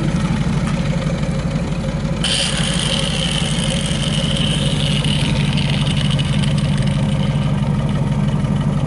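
A small engine running steadily with a low hum. About two seconds in, a high whine with hiss joins in sharply and fades out some three seconds later.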